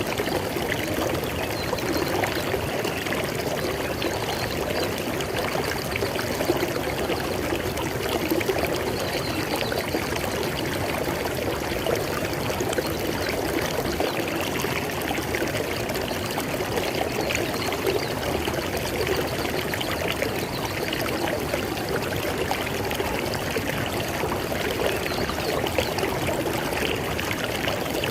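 River water flowing and splashing over rocks, a steady, dense rushing with no pauses.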